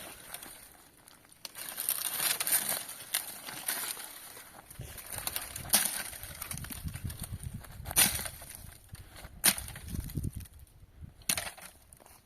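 Irregular rustling and crunching with several sharp snaps, the loudest about six, eight and nine and a half seconds in, with low thuds in between.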